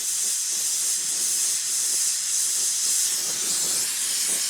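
Ambro Precision Torch's oxygen and MAP-gas flame hissing steadily while heating a 1-1/8 inch copper pipe joint, with brazing filler being drawn into the joint.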